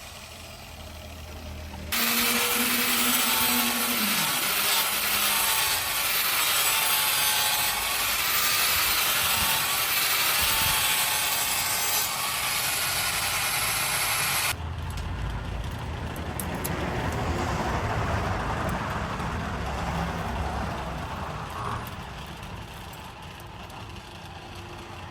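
A workshop power tool running against a workpiece, with the sound changing abruptly about 2 seconds in and again about halfway through, where it turns to a lower, steadier running.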